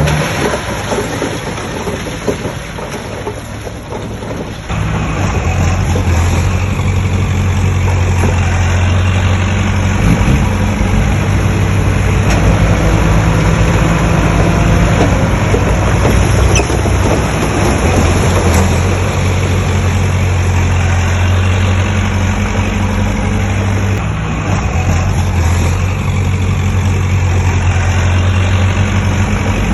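Heavy diesel engine of construction machinery running. It eases off over the first few seconds, then picks up again about five seconds in and holds a steady, loud low drone.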